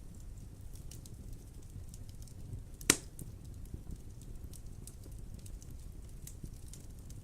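Wood fire burning in a fireplace: a low steady rumble with scattered small crackles, and one sharp, loud pop a little under three seconds in.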